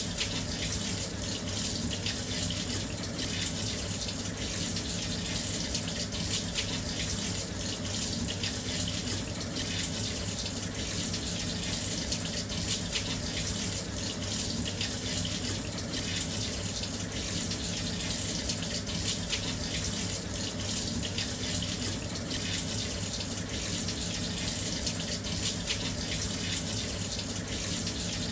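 Washing machine filling with water: a steady, even rush of water flowing into the drum.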